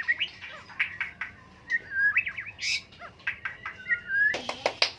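White-rumped shama (murai batu) singing a varied song of short whistles, chirps and quick rising and falling notes, with a brief run of sharp clicks near the end.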